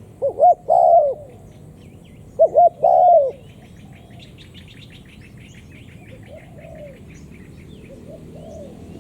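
Spotted dove cooing: two loud phrases about two seconds apart, each a couple of short notes followed by a longer drawn note, then fainter coos later on. Small birds chirp faintly in the background.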